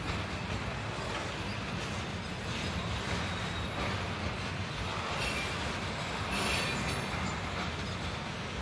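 Container wagons of a freight train rolling past: a steady rumble of steel wheels on the rails, with brief high-pitched wheel squeal about five and again about six and a half seconds in.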